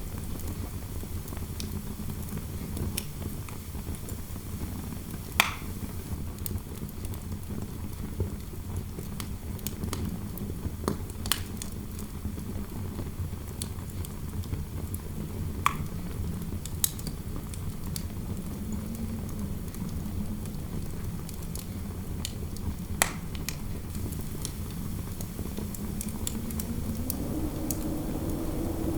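Fireplace fire crackling with scattered sharp pops, over a steady low howl of wind through a room; the howl swells and rises in pitch near the end.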